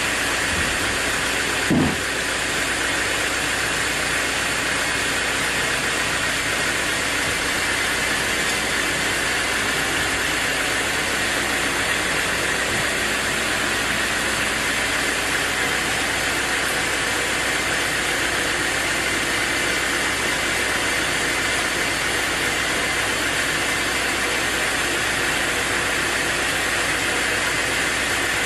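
Sawmill machinery running steadily with an even, hissing noise, with one short knock about two seconds in.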